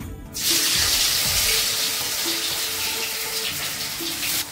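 Potato pieces frying in very hot oil in a kadhai: a steady sizzle that starts suddenly about half a second in and cuts off near the end.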